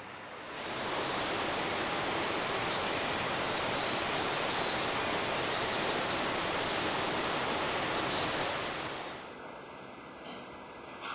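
Steady rush of falling water, setting in within the first second and dropping away about nine seconds in, with a few faint high chirps over it.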